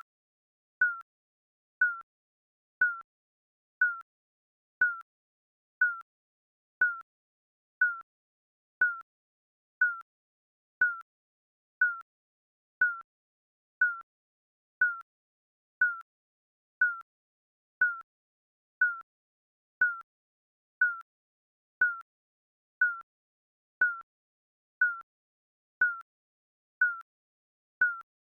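Digital countdown timer beeping once a second, each beep a short high tone.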